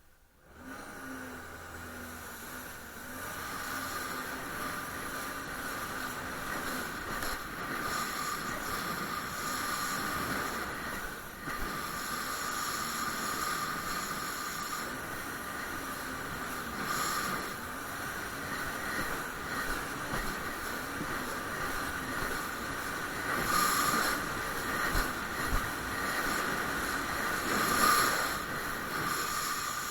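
Jet ski running under way: a steady engine and jet drone with rushing water, starting abruptly and swelling louder a few times near the end.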